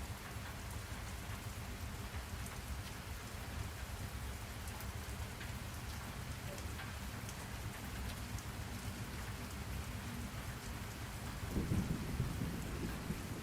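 Steady rainfall, with a low roll of thunder swelling near the end.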